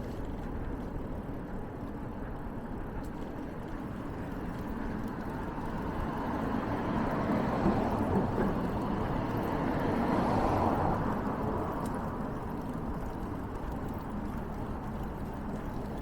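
A road vehicle passing by over a steady low rumble, swelling to its loudest around ten seconds in and then fading away.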